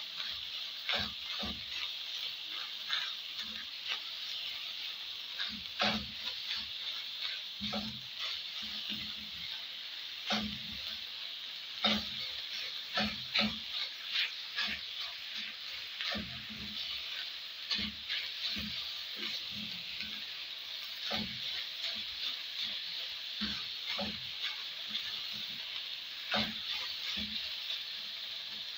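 Minced beef and onions sizzling steadily in a frying pan, with the stirring utensil knocking and scraping against the pan at irregular intervals.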